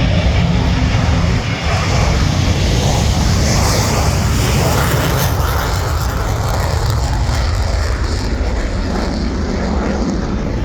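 F-16 fighter's jet engine running at high power for its takeoff: a loud, deep rush that grows brighter and peaks about four seconds in, then eases a little toward the end.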